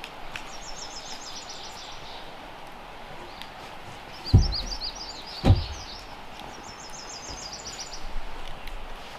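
A songbird singing short rapid trills of repeated high notes, three times, over steady outdoor background noise. Two dull thumps land about a second apart near the middle.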